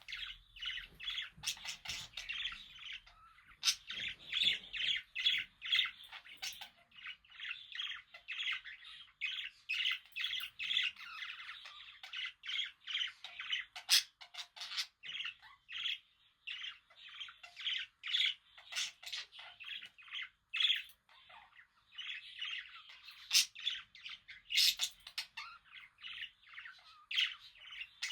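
Pet budgerigars chattering and warbling: a rapid, nearly continuous run of short chirps with sharp squawks mixed in, pausing briefly now and then.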